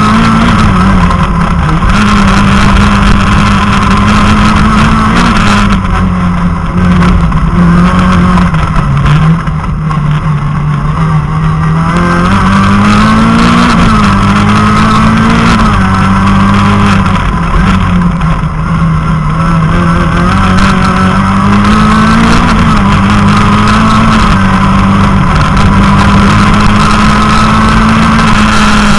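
Citroën Saxo rally car's four-cylinder engine heard loud from inside the cabin, revving hard at speed. Its pitch climbs and drops back again and again as it changes gear, and the car eases off briefly twice.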